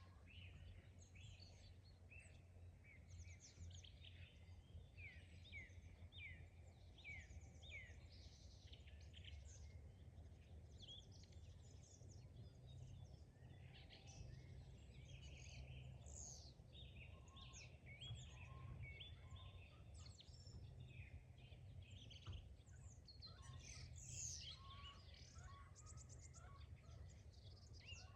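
Faint chorus of several songbirds chirping and trilling, busier through the second half, over a steady low rumble.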